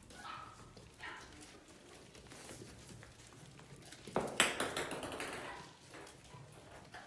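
Biewer terrier puppies giving short, high yips, with a louder, noisier burst of yapping and scuffling about four seconds in.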